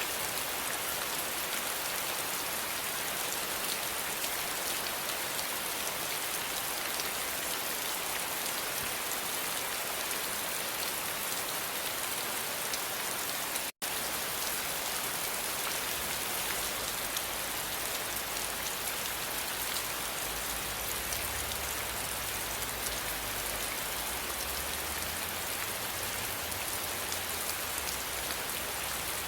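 Steady rain falling, a dense even hiss of drops on a surface, cut by a brief dropout to silence about halfway through.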